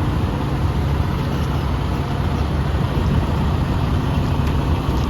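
Tractor-trailer's diesel engine running steadily, low and even.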